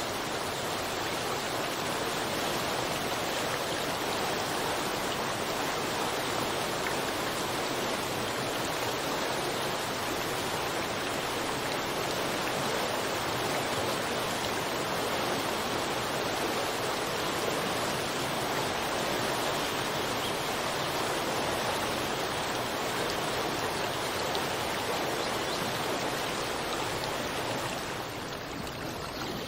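Running water, a steady, even rush like a stream or small waterfall, easing slightly in level near the end.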